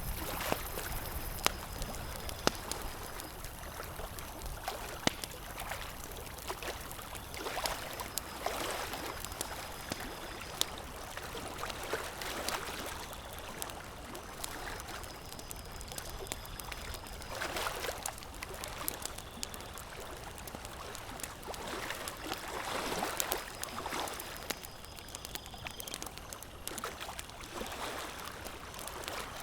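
Campfire crackling with scattered sharp pops, over lake water lapping in soft washes that swell and fade every few seconds.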